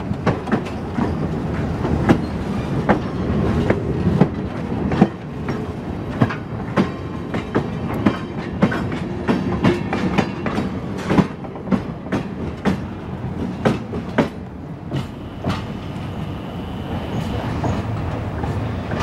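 Train rolling along, its wheels clicking over the rail joints at an uneven beat of one or two clicks a second above a steady low rumble.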